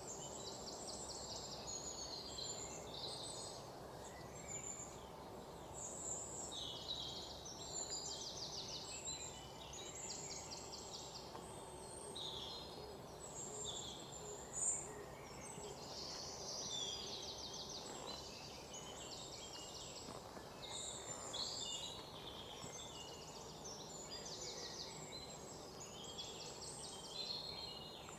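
Several forest birds chirping and trilling, with short rapid trills every second or two over a steady low background hiss. One sharp click about halfway through.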